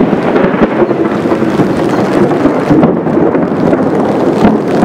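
Thunderstorm: thunder rolling on in a loud, steady rumble, with rain.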